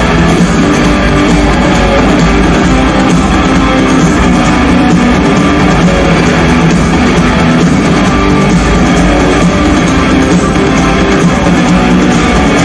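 Rock music led by guitars, an instrumental stretch with no singing, playing at a steady loud level.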